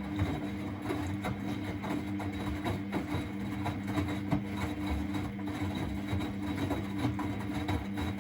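Miele Novotronic W921 washing machine running, its drum turning: a steady low motor hum under a continuous patter of irregular clicks and knocks.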